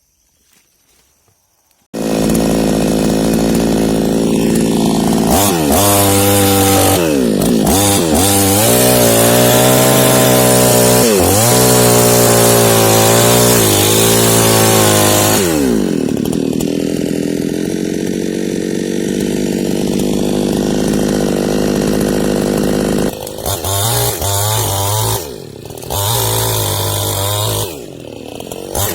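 New West 628 two-stroke petrol chainsaw cutting into a large tree trunk. It comes in abruptly about two seconds in at high revs, and its pitch dips and recovers again and again as the chain bites into the wood. Near the end the throttle eases off briefly a few times.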